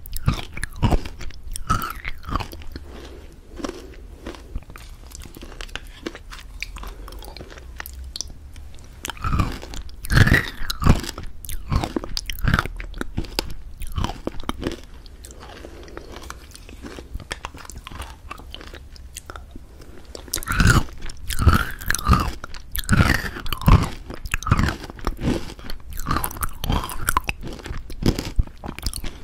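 Irregular close-up crunching and clicking in clusters, with a quieter stretch in the middle.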